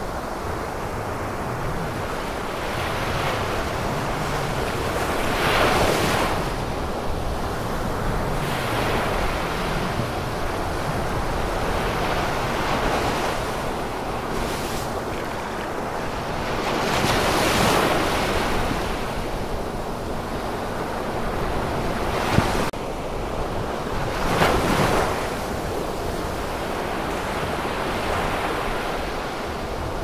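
Ocean surf washing continuously, with larger waves swelling and breaking three times, several seconds apart. A single short click about two-thirds of the way through.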